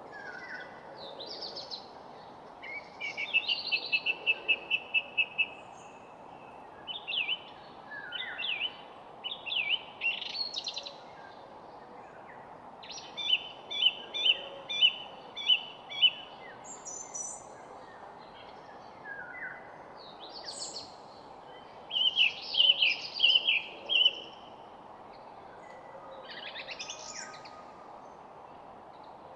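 Songbirds singing in short phrases every few seconds, some phrases made of quick runs of repeated notes at about four a second, over a steady low background hiss.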